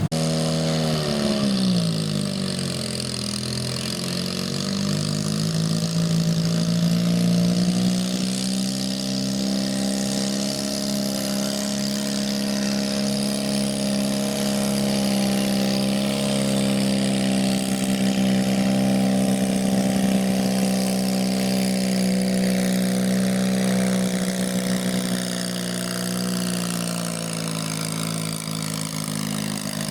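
Small garden tractor engine running. Its pitch drops over the first couple of seconds, climbs back within a few seconds, then holds steady, sagging slightly near the end.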